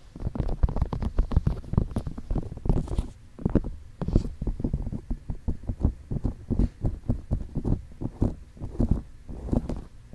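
Fingertips tapping and rubbing on the silicone ears of a binaural ASMR microphone: rapid, muffled, low taps, several a second, with brief pauses between the runs.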